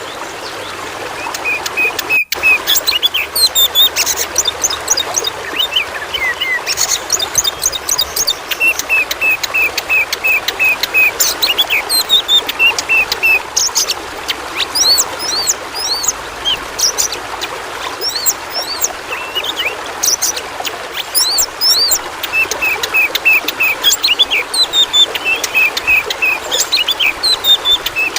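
Oriental magpie-robin (kacer) singing a varied song of rapid repeated notes and high whistles over a steady sound of running water. The sound cuts out for an instant about two seconds in.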